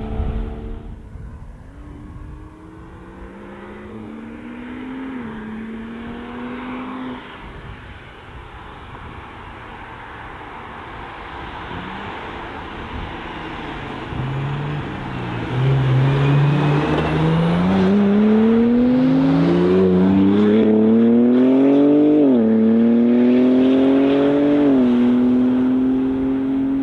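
Sports car engines accelerating hard through the gears, their pitch climbing and dropping at each upshift. A first run fades out early, then a much louder one builds from about halfway and stays loud, with two upshifts near the end.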